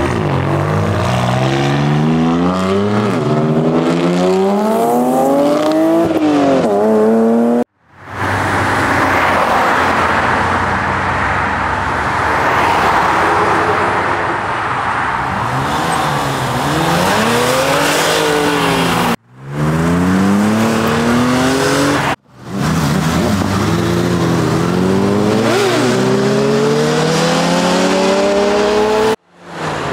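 Car engines accelerating hard, their pitch climbing and dropping back through a series of upshifts. A middle stretch is a steady, noisier rush with some tyre noise. The sound cuts off abruptly three times as one clip gives way to the next.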